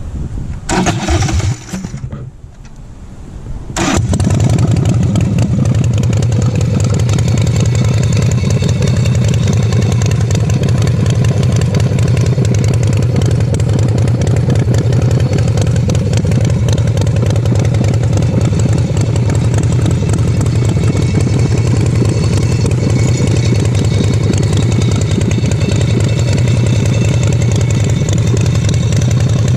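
Custom pro-street chopper's engine started on the electric push button: a brief burst of cranking, a short pause, then the engine catches about four seconds in and settles into a steady idle.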